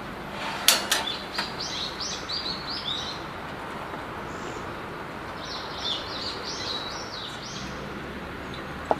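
A songbird singing two phrases of quickly repeated short high notes, with two sharp clicks about a second in.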